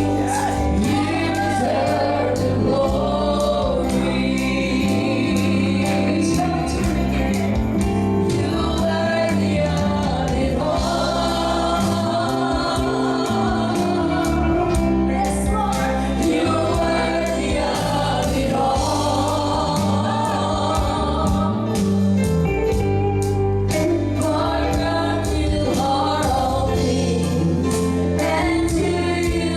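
Gospel singing by a choir with instrumental accompaniment and a steady beat.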